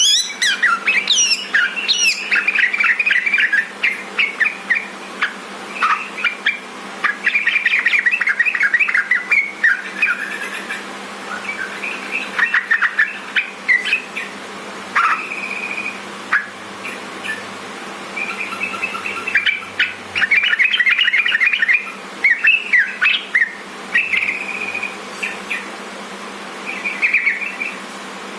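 Yellow-vented bulbul (trucukan) singing: repeated bursts of quick, bubbly chirping phrases broken by short pauses, over a faint steady hum.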